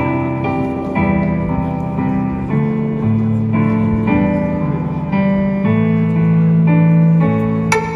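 Gayageum playing a slow melody over a keyboard accompaniment of held chords, with crisp plucked notes near the end.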